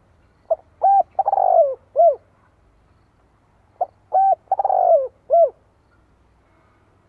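Spotted dove cooing: a captive decoy male singing its song to lure wild doves. Two identical four-note phrases come about three seconds apart, each with a longer, falling third note.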